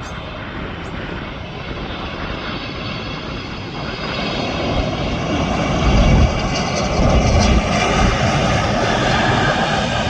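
Jet engines of a Boeing airliner with a steady high whine and rushing noise, growing louder as the aircraft nears. Low rumbling swells come in about six and seven seconds in.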